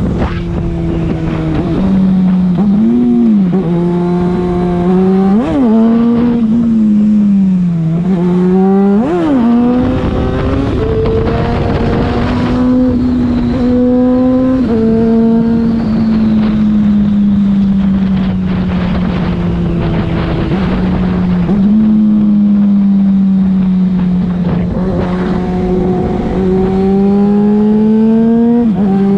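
Yamaha FZ6's inline-four running through a LeoVince aftermarket exhaust while riding. There are quick throttle blips early on, a climb in revs that drops sharply at a gear change about halfway, a long easing off, and the revs build again near the end. Wind rushes past from about a third of the way in.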